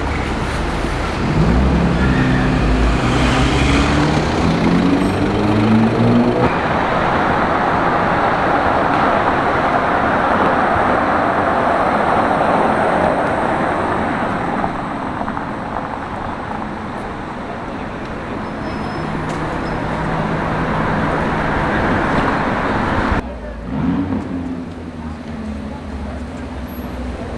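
Street traffic: a car engine accelerating, its pitch rising over the first few seconds, then a steady rush of passing traffic, with an engine humming steadily near the end.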